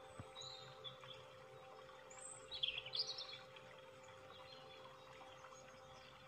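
A bird chirps in one short burst of quick high notes about two and a half seconds in, over a faint steady hum.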